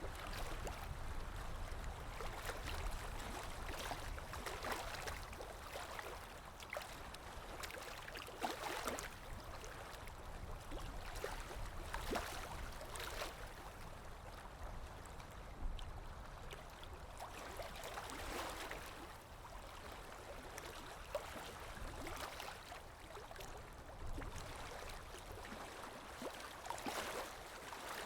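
Water lapping in a light wind: small washes of water come every few seconds over a steady low wind rumble.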